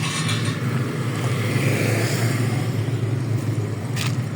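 Steady low engine rumble, loud and unchanging.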